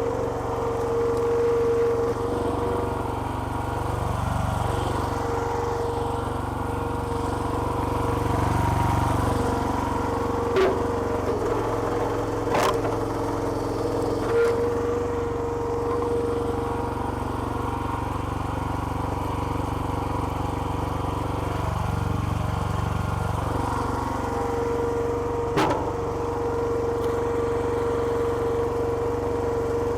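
Small petrol engine driving a homemade hydraulic log splitter, running steadily; several times its note sags and deepens briefly as it comes under load. A few sharp cracks or knocks stand out over it, about a third of the way in and again near the end.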